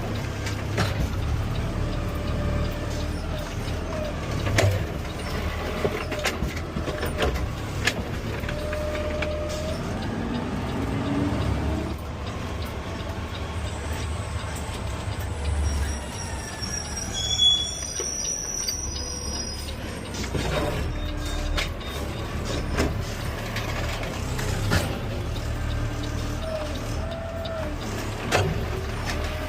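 Automated side-loader garbage truck (Peterbilt 520, CNG) running, its low engine rumble steady under repeated clanks and knocks. Short squeals come and go, with a brief cluster of high squeals a little past halfway.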